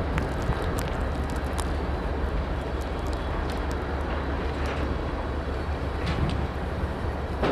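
Freight train rolling past through the yard: a steady low rumble from the cars on the rails, with scattered sharp clicks from the wheels and track.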